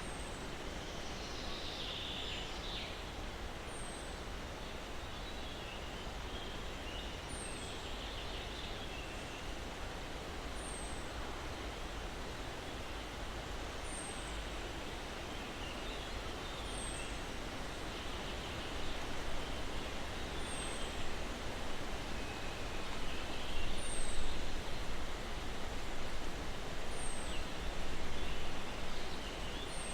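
Breeze rustling through pine trees with birds chirping, while one high, short falling note repeats about every three seconds. The rustling grows louder and more uneven in the second half.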